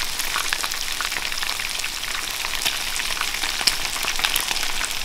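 Pieces of chicken karaage coated in crushed Baby Star Ramen shallow-frying in oil in a pan: a steady sizzle with many sharp crackles and pops, one a little louder about three and a half seconds in.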